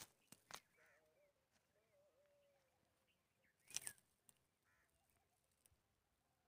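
Faint, distant bird calls, thin and wavering, over quiet outdoor background. A brief rustling crackle about four seconds in is the loudest sound.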